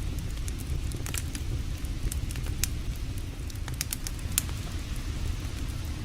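Campfire burning, crackling and popping in irregular sharp snaps over a steady low rumble.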